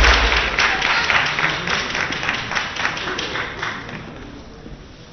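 Spectators at a table tennis match clapping in rhythm, about three to four claps a second, fading away after a loud crowd reaction.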